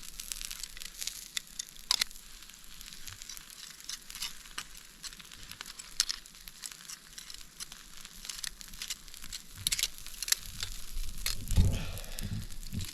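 Campfire crackling with sharp pops while partridge meat sizzles in butter over the flames. A low thump near the end.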